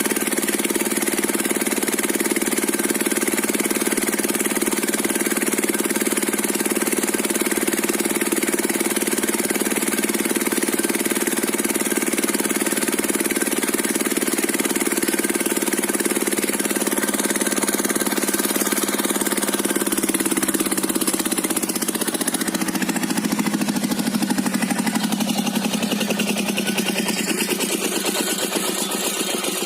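Diesel engine driving a circular saw rig, running steadily with a high whine over it; about two-thirds of the way through the whine stops and the engine note drops and wavers as the saw slows. The blade's teeth have been stripped by old iron embedded in the log.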